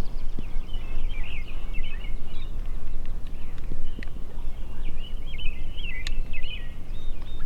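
Songbirds singing in fast, warbling phrases, two bursts of song, over a steady low rumble of outdoor background noise.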